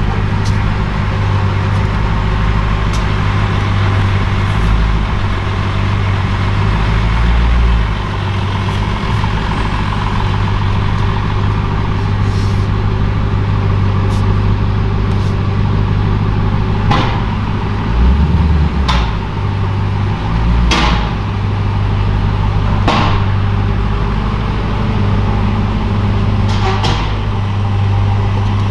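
Steady low drone of the 2023 Dodge Durango SRT Hellcat's supercharged V8, running on its stock mufflers. About five sharp clicks come in the second half.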